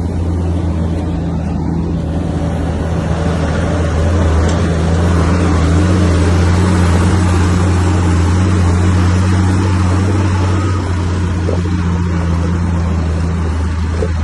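Diesel engine of a Komatsu bulldozer running steadily under load, getting louder about four seconds in and easing slightly near the end.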